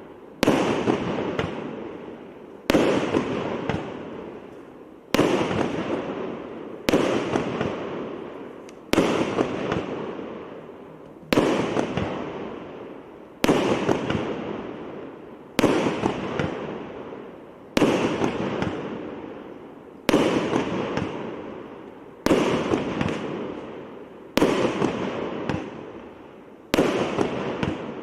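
A 19-shot, 1-inch-calibre firework cake firing its shots one after another, about one every two seconds. Each shot is a sharp bang followed by a noisy tail that fades away before the next.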